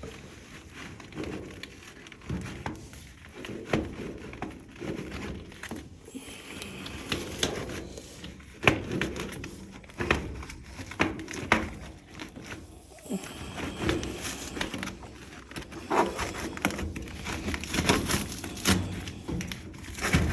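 An HVAC air filter being wiggled and worked loose from its slot where it is hung up: irregular crinkling and scraping of the filter, with scattered knocks and clicks against the housing.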